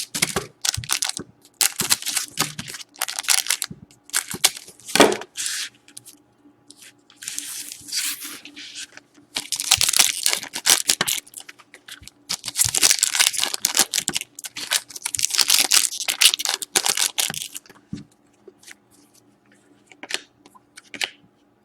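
Trading-card pack wrappers being torn open and crinkled, in a run of ripping bursts with short pauses between them. The sound dies down near the end.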